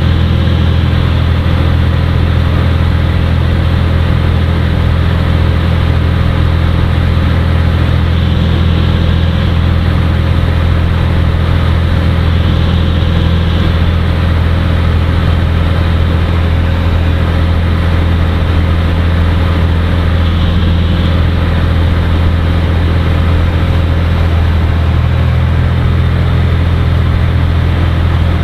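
Cirrus SR20's four-cylinder Lycoming engine and propeller running at a steady power setting, a loud even drone heard from inside the cockpit.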